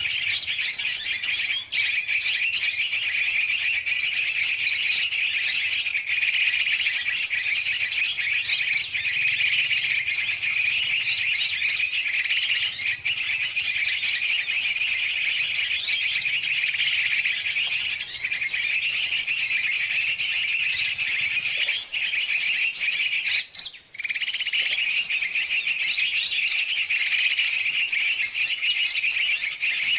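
Bird-lure recording: a dense, continuous chorus of many birds, large and small, chirping and chattering noisily, used to draw in yellow-vented bulbuls (trucukan) and other birds. The calls recur in a repeating pattern, with a brief break about 24 seconds in.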